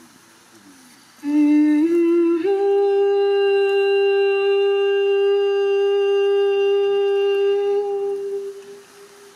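A wordless voice humming, starting about a second in. It climbs in two small steps to one note, holds that note steady for about six seconds, then fades away near the end.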